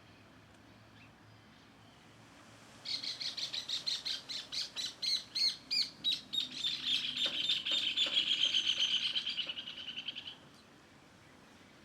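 A songbird singing: a fast run of high chirps begins about three seconds in, runs together into a quicker, denser trill, and stops after about seven seconds.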